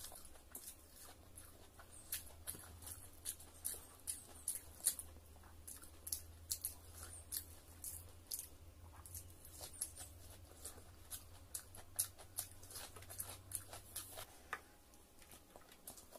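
Close-miked eating sounds: chewing and lip smacking, with irregular wet clicks and smacks, as soft rice, roti and curry are eaten by hand.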